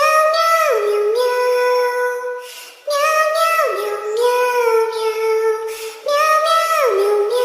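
Background music: a high, childlike singing voice repeats the same short phrase three times, about every three seconds, each time holding a note and then dropping lower.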